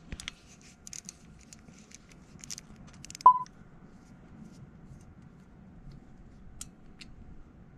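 A few faint clicks and light taps, with one short electronic beep about three seconds in.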